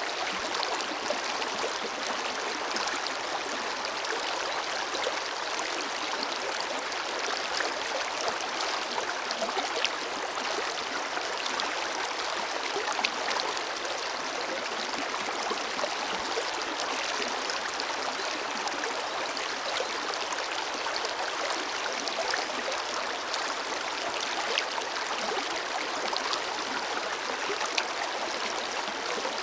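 Forest river flowing over rocks: a steady, even rush of water with fine splashes and gurgles and little low rumble.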